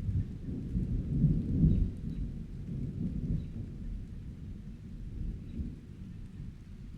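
Rolling thunder rumbling over steady rain, loudest about a second or two in, then slowly fading away.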